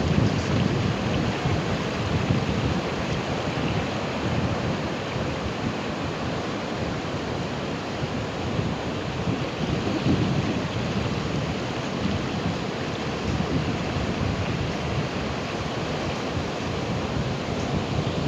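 Ocean surf breaking continuously, a steady rushing wash with a low rumble that swells a little every few seconds.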